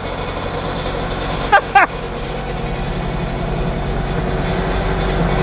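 Trabant's two-stroke, air-cooled two-cylinder engine idling steadily, just started for the first time after a full rebuild. It gradually grows a little louder.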